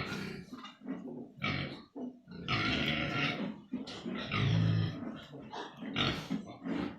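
Pigs grunting and calling, many short irregular calls overlapping one after another. There are some higher, noisier calls around the middle, and a louder deep grunt about four and a half seconds in.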